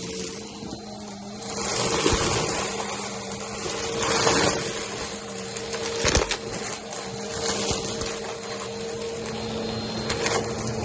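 Vacuum cleaner running on carpet with a steady motor hum, crackling and clicking as it picks up crunchy cereal debris, with louder surges about two, four and six seconds in.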